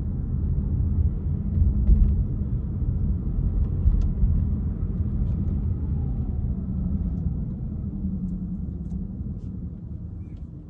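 Low, steady rumble of a car driving on city streets. It grows gradually quieter over the second half.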